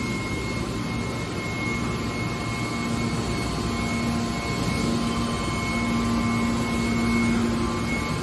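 Steady industrial machinery noise: a continuous hum with held whining tones and no distinct knocks or impacts.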